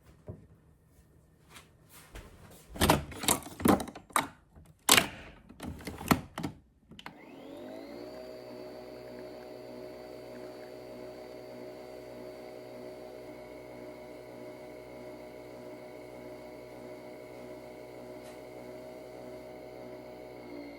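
Several knocks and clatters of things being handled, then an electric blender switches on at about seven seconds, its motor rising in pitch as it spins up and then running steadily.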